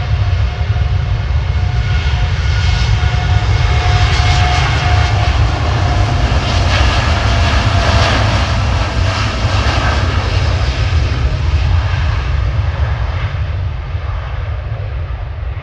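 Jet airliner's engines passing close, building to their loudest about halfway through and then fading near the end, with a deep rumble under steady whining tones.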